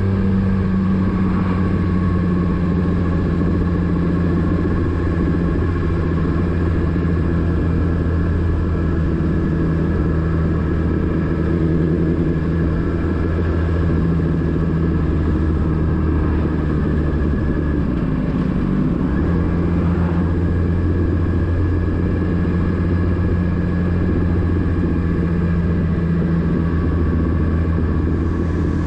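Motorcycle engine running at a steady engine speed, a low, even drone whose pitch hardly changes.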